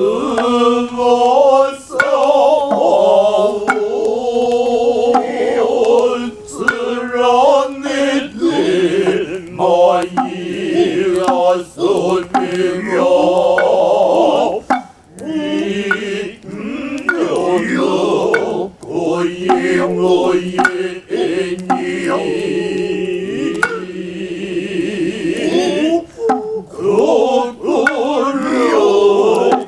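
Male voices chanting noh utai in long, wavering sustained tones, with scattered sharp strikes of the hayashi drums.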